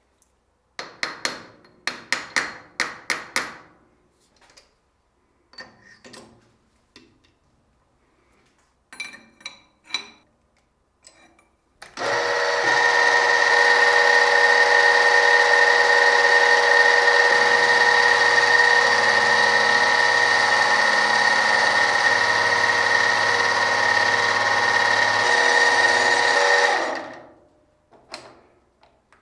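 Several sharp metallic clicks and clatters, then a power tool's motor starts suddenly and runs steadily with a high whine for about fifteen seconds before running down and stopping.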